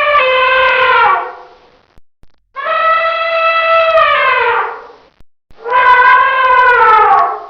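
Elephant trumpeting: three long, brassy calls in a row, each holding its pitch and then sliding down as it fades. The first is already under way and dies away about a second in; the last is cut off near the end.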